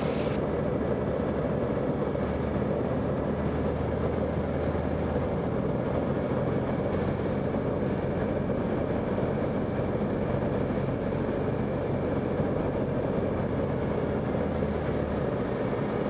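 Steady cockpit drone of a Zenith CH 750 Cruzer light aircraft with the engine throttled back and air rushing past, the power pulled off for landing with flaps down.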